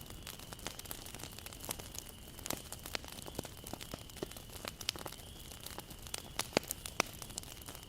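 Wood bonfire crackling, with irregular sharp pops and snaps of the burning wood over a low steady background of the flames.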